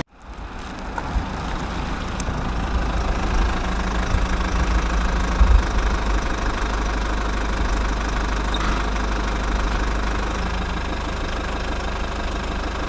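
Heavy diesel engine running steadily, coming in just after a cut at the start.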